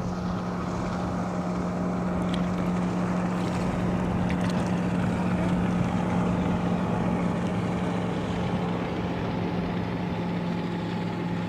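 Motorboat engine running at a steady speed, one constant pitch over a rush of wind and water.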